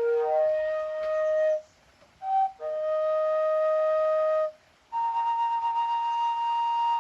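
A flute playing a slow melody of long held notes, each lasting one to two seconds, with short breaks between them; the last note is the highest.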